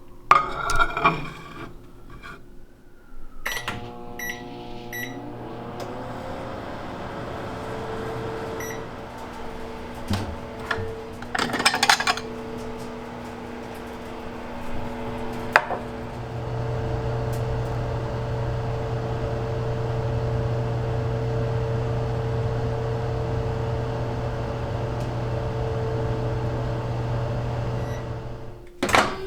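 Microwave oven roasting nuts: it starts with a click and a few short beeps, then runs with a steady hum that grows louder about halfway through. There are a few sharp clicks while it runs, and the hum stops shortly before a knock near the end.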